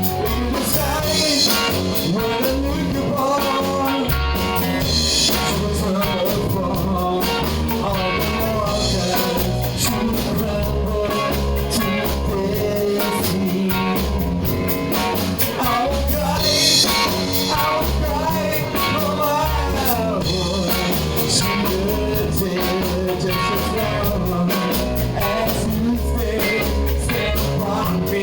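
Live rock band playing: a singer with electric guitar, bass and drum kit keeping a steady beat.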